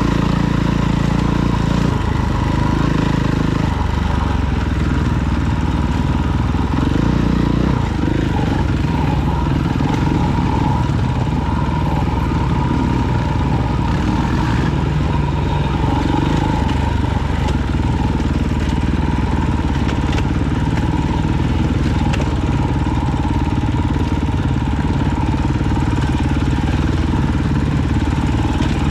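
Engine of an off-road vehicle running steadily while riding, with only small rises and falls in pitch.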